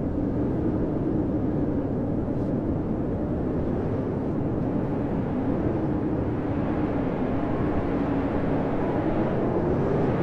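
Blizzard wind blowing hard: a steady, deep rush with a wavering tone that slowly rises and falls in pitch.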